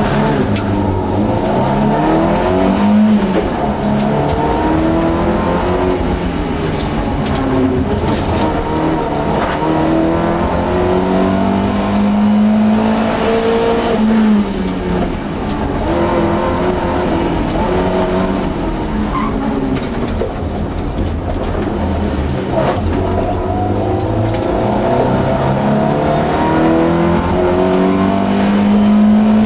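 Volvo 242 GT engine heard from inside the cabin while it is driven hard, revving up and falling back again and again as the car accelerates, shifts and slows.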